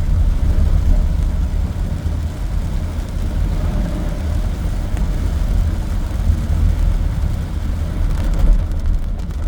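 Car driving along, with a steady low engine and road rumble heard from inside the cabin.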